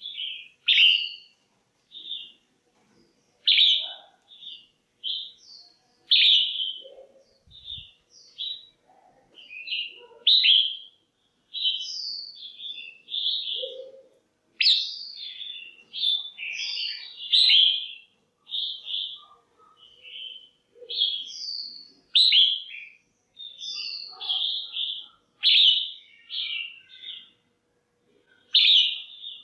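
Female red-whiskered bulbul calling in a quick, continuous run of short, bright chirps and warbled notes, several a second with brief gaps. These are the calls used to stir up a male bulbul or to pair birds.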